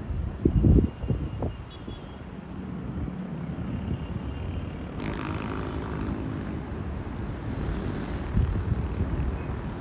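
A motor engine running with a steady low rumble; a few heavy low thumps near the start, and an abrupt change about halfway through to a brighter, louder engine sound.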